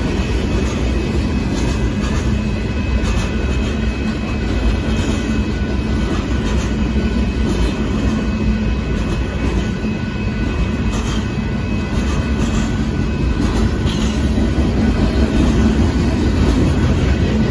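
Union Pacific freight train of boxcars rolling past a grade crossing: a steady rumble of wheels on rail with clicks from the rail joints and a few thin, steady high tones above it, growing a little louder near the end.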